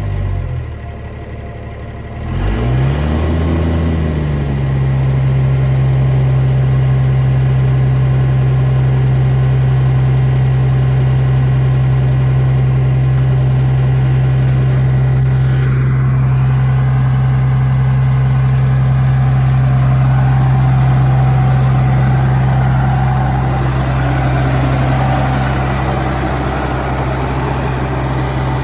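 Cummins 12-valve diesel engine idling cold in a 1998 truck. A little over two seconds in, the engine speed briefly rises and falls back, then it settles into a steady idle. The engine-driven cooling fan runs along with it; the owner says the fan is stuck at full blast and suspects the fan clutch.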